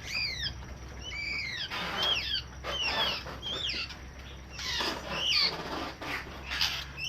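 Birds calling: a series of short, high chirps, each arching and falling in pitch, about one a second, with rustling and wing flaps among them.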